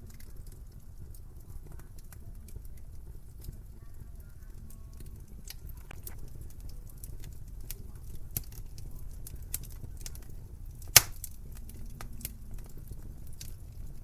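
Wood fire crackling in a fireplace: a steady low rumble of flame with frequent small sharp pops, and one much louder pop about eleven seconds in.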